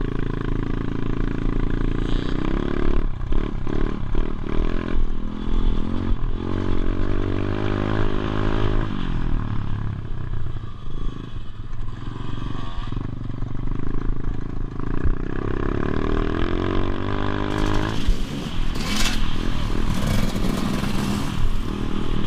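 Motorbike engine running and revving up and down repeatedly, the pitch rising and falling several times, with clattering and rushing noise in the last few seconds.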